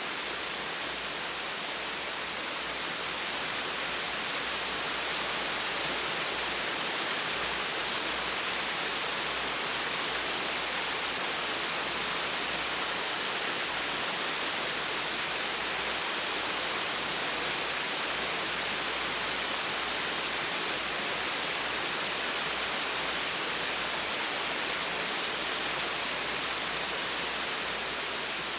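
Gentle waterfall: the steady, even rush of falling water, unchanging throughout.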